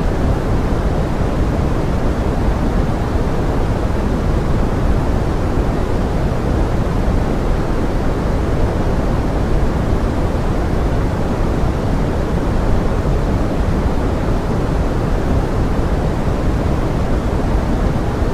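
Steady pink noise: an even, unchanging rush weighted toward the low end, with no separate drops or events.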